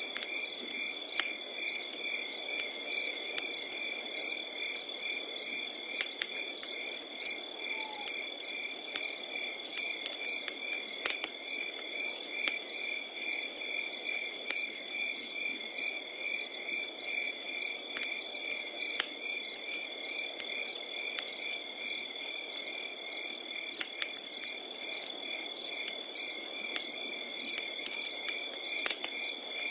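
Night insects chirping in an even rhythm, about two chirps a second over a continuous high trill, with scattered sharp crackles and pops from a burning wood fire.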